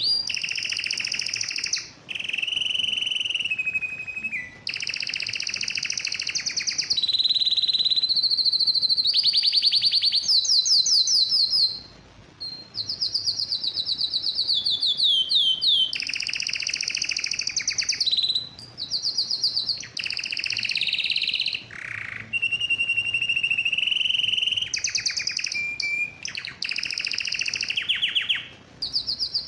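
Male domestic canary singing phrase after phrase of rapid trills and rolls of quickly repeated notes, with short breaks between phrases. This is the vigorous courtship song of a male in breeding condition.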